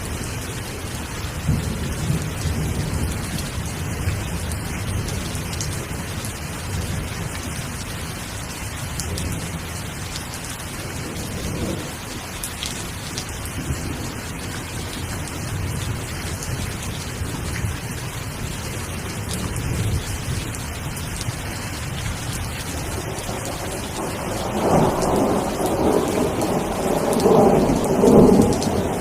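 Steady rain falling, with a low rolling rumble of thunder underneath that swells into a louder, longer peal in the last few seconds.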